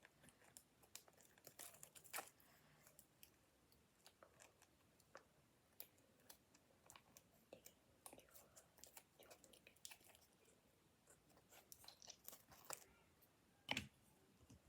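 Faint rustling and crinkling of paper and cardboard being handled, with scattered small clicks and one louder knock near the end.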